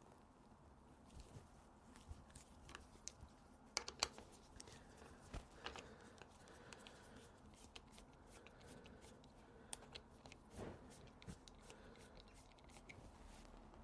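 Faint scattered clicks and light handling noises from hand tools being used to remove a motorcycle's front brake master cylinder. The sharpest pair of clicks comes about four seconds in.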